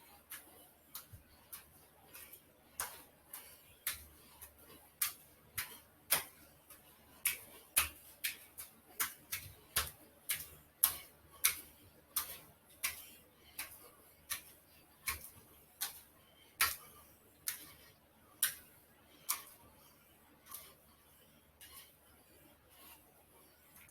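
A run of sharp, light clicks at uneven spacing, roughly one or two a second, louder through the middle and fading near the end.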